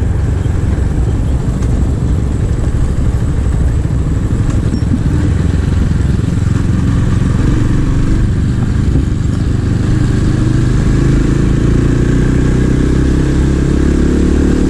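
A 250 cc scrambler motorcycle's engine running steadily under way, with wind noise. Over the last few seconds its pitch rises as it speeds up.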